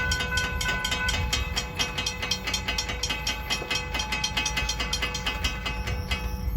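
Freight train of rock and fly ash cars rolling past, its wheels clicking quickly and evenly over the rail joints, about five or six clicks a second, over a low rumble with a faint steady squeal. The clicking stops shortly before the end.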